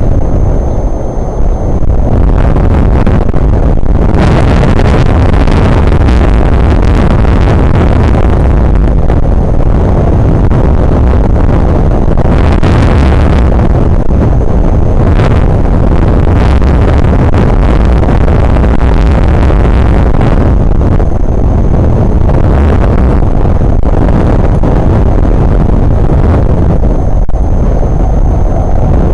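Strong wind buffeting an outdoor microphone: a loud, continuous low rumble that swells and eases in gusts.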